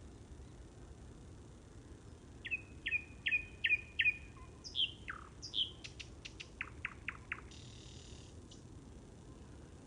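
A songbird singing: a phrase of five quick repeated notes, then two down-slurred whistles and a run of quick falling notes, with a brief hiss after it. A faint low rumble of ambience runs underneath.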